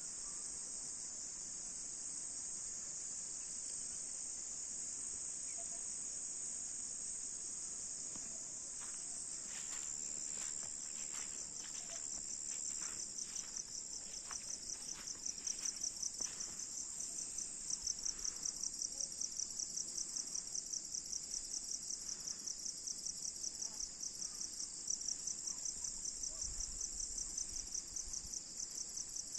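Insects trilling steadily in a high pitch. From about halfway the trill pulses at about two to three beats a second, and a few faint knocks come earlier.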